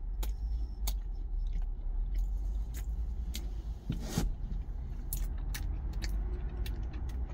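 Close-up chewing of a thick rye-bread mentaiko egg-mayo sandwich, with scattered short wet mouth clicks, over a low steady rumble.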